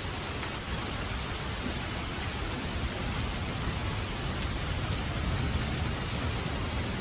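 Steady light rain falling, an even hiss with no breaks.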